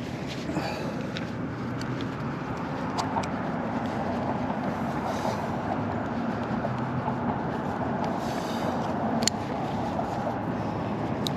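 Steady motor-vehicle noise: a car's engine and road rumble running evenly, with a few faint clicks.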